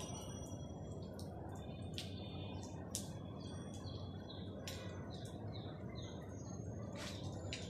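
Many small birds chirping and twittering in quick, short calls, some in brief trills, over a steady low background hum.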